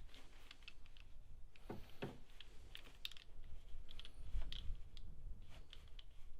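Scattered light clicks and taps of a small torque wrench and socket working on the cap nuts of a plastic engine top cover, with a couple of duller knocks about two seconds in.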